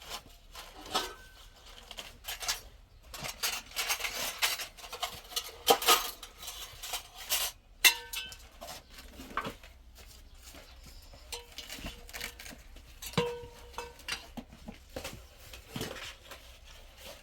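Irregular clattering and clinking of metal objects, some strikes ringing briefly.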